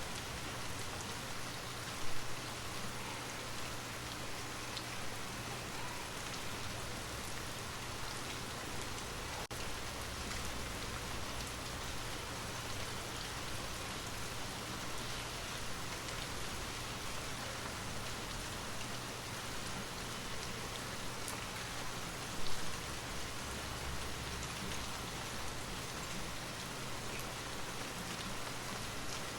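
Steady rain falling, an even hiss of drops on a surface, with two brief louder bumps about two seconds in and again about twenty seconds later.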